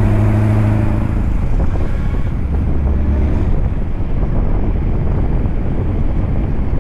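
Scania truck running, a steady engine drone that fades about a second in, leaving a low rumble with wind buffeting the microphone.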